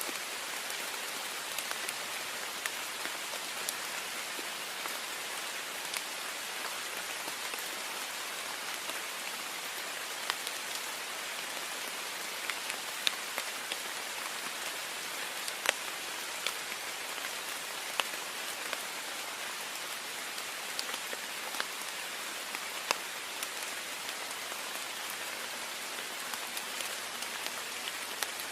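Heavy rain falling steadily on a window, an even hiss with scattered sharper drop taps.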